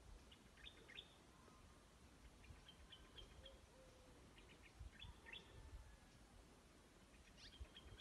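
Faint small-bird chirps: short, high notes in brief clusters every couple of seconds, over a faint low rumble.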